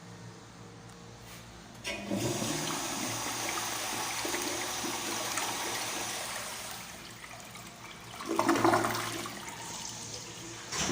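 Commercial fixture flushing through an FV Autoflush sensor-operated flush valve: a sudden rush of water starts about two seconds in, runs for several seconds and tapers off, with a brief louder surge near the end.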